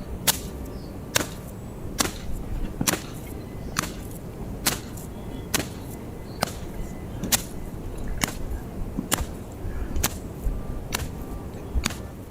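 A hammer driving nails into wooden planks, with sharp blows about once a second and a steady low rumble underneath.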